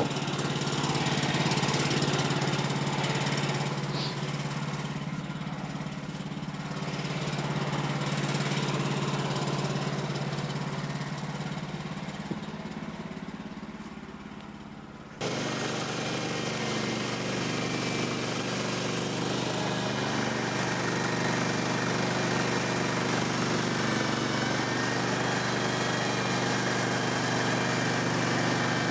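Small gas engine of a Woodland Mills HM126 bandsaw sawmill running steadily. About fifteen seconds in the sound changes abruptly and gets louder.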